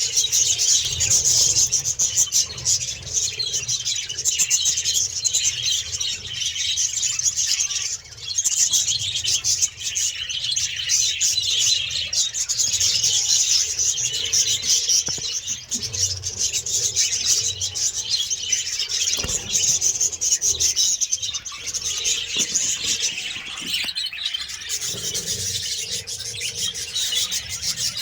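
Parrots chattering and twittering together in a dense, continuous, high-pitched din.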